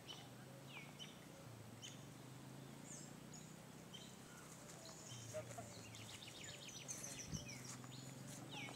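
Faint outdoor birdsong: scattered short chirps and calls, with a quick run of repeated chirps about six to seven seconds in, over a low steady hum.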